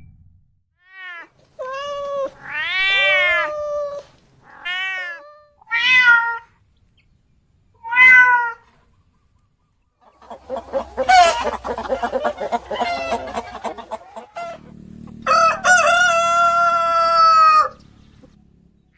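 Kitten meowing repeatedly in short rising-and-falling calls, followed near the end by chicken calls and a long rooster crow.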